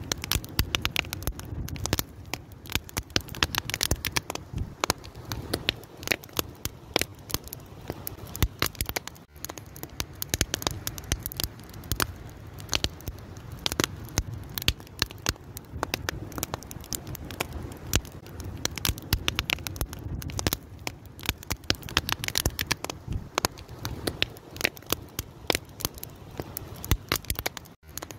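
Wood fire crackling, with a dense run of sharp pops and snaps over a low, steady rumble.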